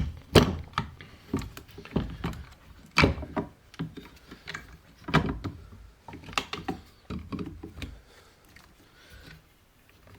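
Irregular knocks and clicks of a chainsaw's plastic tank-and-rear-handle housing being pushed and worked onto its rubber mounts, which keep hanging up. The handling quietens toward the end.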